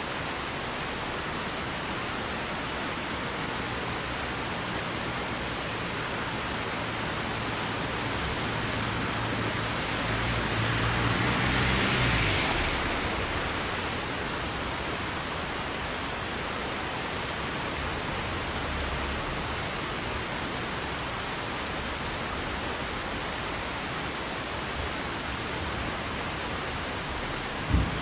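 Heavy rain falling steadily in a dense, even hiss. About halfway through, a swell of hiss with a low hum rises and falls, like a vehicle passing on the wet road. A single short knock comes near the end.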